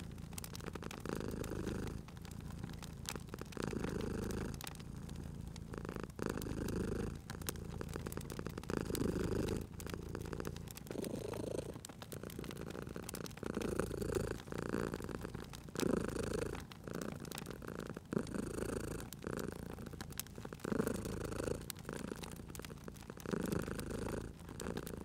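Domestic cat purring in swells that come every second or two with its breathing, over the light crackle and pops of a wood fire.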